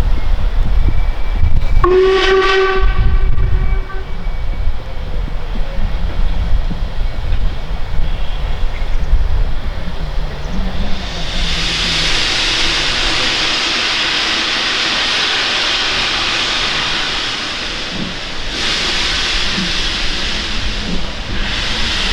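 Steam locomotive working with a heavy low rumble, giving a short whistle blast about two seconds in. From about halfway a loud steady hiss of escaping steam sets in, breaking off briefly near the end before it resumes.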